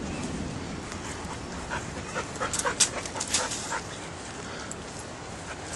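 Dog whimpering in a quick run of short, sharp cries, clustered about two to four seconds in, over a steady background hiss.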